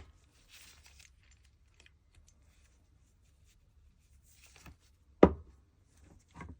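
Workbench handling sounds during reassembly of a CO2 Webley revolver replica: faint rustling, then one sharp click or knock about five seconds in, and a softer one near the end.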